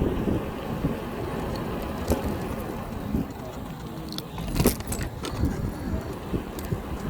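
Riding noise from an electric bike on the move: low wind rumble on the microphone, with metallic rattles and clicks as the bike jolts. The loudest rattle comes about four and a half seconds in.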